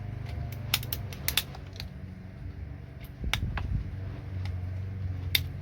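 Sharp clicks and taps as a small connector is pried and knocked off a computer circuit board, about half a dozen spread out irregularly, over a steady low hum.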